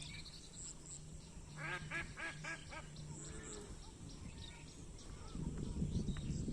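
Ducks quacking: a quick run of about six calls about two seconds in and a fainter one a second later, over a steady low hum. A louder low rumbling noise sets in near the end.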